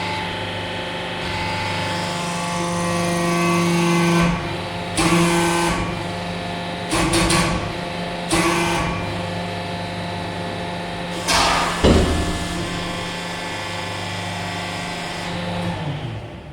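Hydraulic press pump motor running with a steady hum, broken by four short loud bursts of noise about 5, 7, 8.5 and 12 seconds in. The motor stops near the end.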